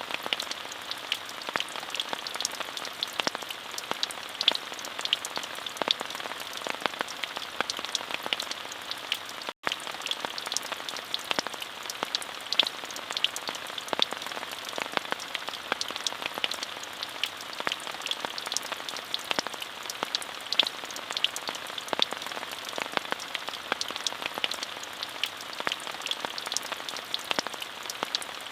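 Steady rain, an even hiss with many distinct drops ticking close by. There is a split-second dropout about ten seconds in, where the recording's loop joins.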